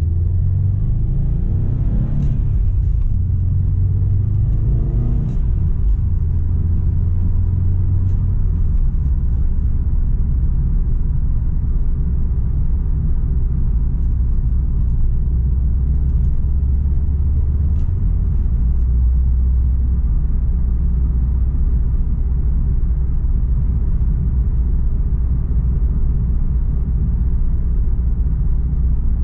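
Tuned Subaru Impreza STI's turbocharged flat-four running through a Milltek aftermarket exhaust while driving, a steady low rumble. The pitch rises briefly twice in the first few seconds.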